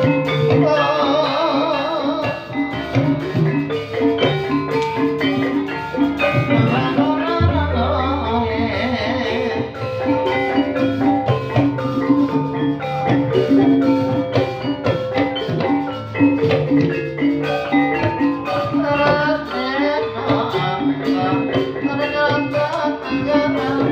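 Live ebeg dance accompaniment in dangdut style: tuned mallet percussion and drums playing a steady rhythmic pattern, with a wavering melody line over it in the first few seconds.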